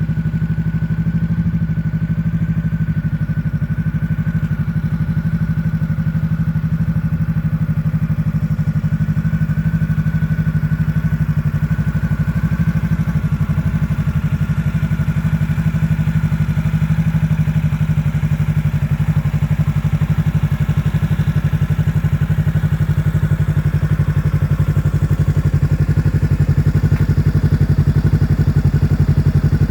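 Honda CB500X's 471 cc parallel-twin engine idling steadily through an IXIL L3X Hyperflow slip-on exhaust with its dB killers removed.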